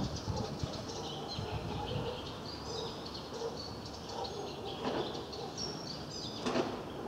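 Small birds chirping and twittering in short high calls over a steady background of outdoor noise, with two brief sharper sounds about five and six and a half seconds in.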